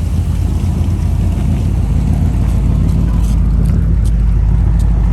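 Car engine running steadily: a low rumble, with a few faint clicks near the end.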